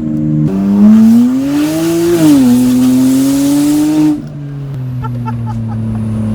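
BMW 335i's N54 twin-turbo inline-six with the exhaust removed from the catless downpipes back, accelerating under throttle. Its pitch climbs, dips sharply about two seconds in, and climbs again under a loud hiss. About four seconds in the hiss cuts off suddenly, leaving a steady, lower drone as the throttle is lifted.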